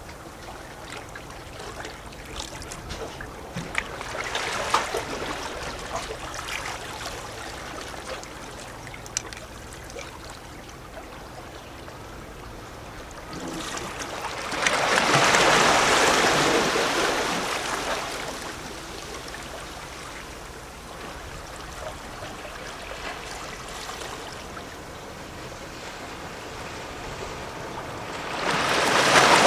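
Gentle sea waves lapping and gurgling against a rocky shore, with small splashes a few seconds in. A bigger wave surges in about halfway through and ebbs away, and another begins to wash in near the end.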